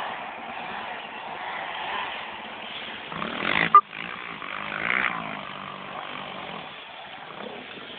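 Small pit bike engine running, its note rising twice, about three and a half and five seconds in, with a brief sharp loud sound just before four seconds.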